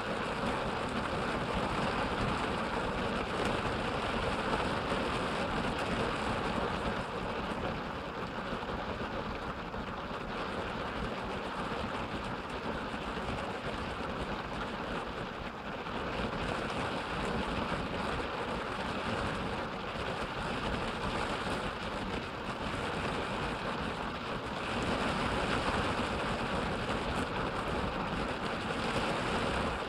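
Steady thunderstorm rain falling on a minivan's roof and windshield, heard from inside the van. It eases a little after about seven seconds and picks up again near the end.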